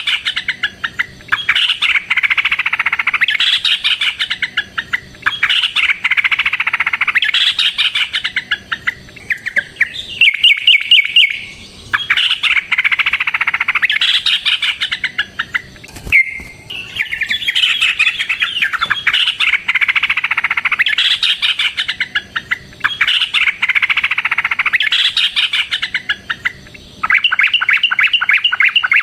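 Yellow-vented bulbul (trucukan) singing loud, chattering phrases of about two seconds each, one after another, broken by fast even trills about ten seconds in and near the end.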